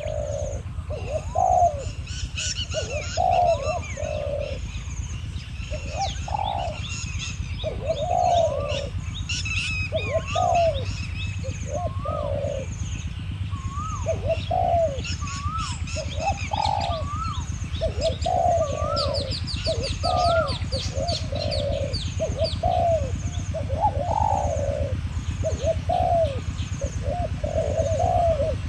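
Spotted doves cooing over and over in dense, overlapping phrases, a decoy bird and a wild one calling against each other. Smaller birds chirp higher up, and a faint high pulse repeats steadily.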